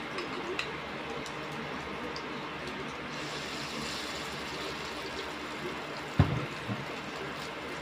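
Salmon patties frying in shallow oil in a stainless steel pot, a steady sizzle. A metal spoon shaping the patties gives a sharp clink against the pot about six seconds in, the loudest sound here.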